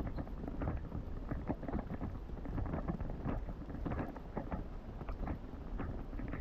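Footsteps crunching in snow at a walking pace, a few steps a second, over a steady low rumble on the microphone.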